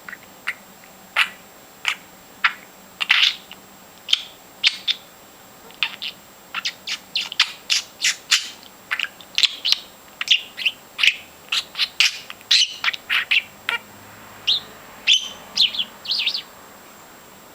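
Pet bird chirping in a long run of short, sharp calls, two or three a second, coming thickest in the middle stretch. It is singing after being coaxed to sing.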